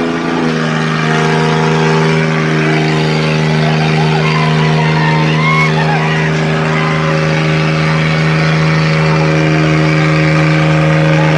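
Tractor diesel engine running hard at steady high revs, its note held constant.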